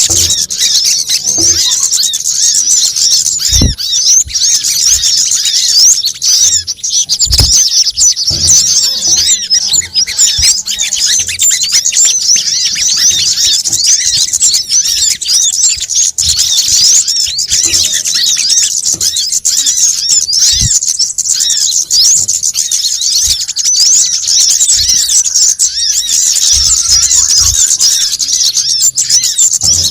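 Dense, high-pitched chattering and twittering of many small birds at once, a looped bird-lure recording of sunbird-type calls (kemade, sogon and coconut sunbird). It never pauses, and a few soft low thumps sound beneath it.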